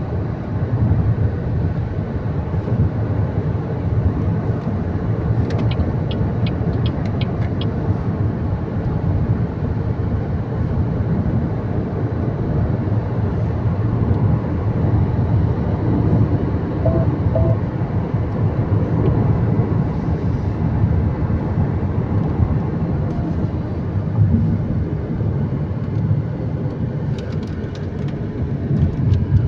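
A car driving through city traffic: steady road and engine rumble. Short runs of rapid high chirps about six seconds in and again near the end.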